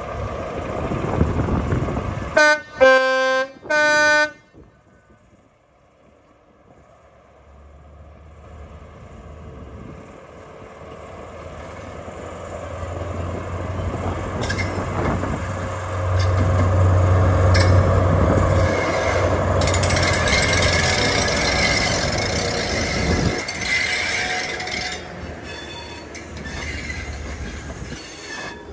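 Two short blasts of a High Speed Train's two-tone horn a couple of seconds in, then the diesel engine of a Class 43 power car with a deep drone and rail noise, building up to a loud peak and then fading.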